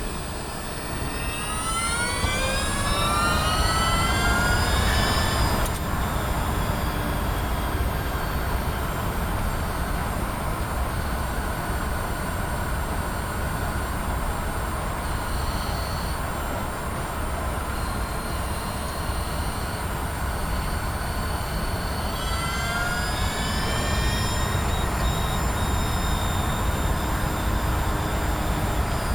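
Mazda MX-30's electric drive unit and reduction gear whining, the whine rising in pitch as the car accelerates, once about a second in and again near the 22-second mark, over a steady low rumble. The owner traces the rumble to the driveline, while two workshops put it down to the tyres.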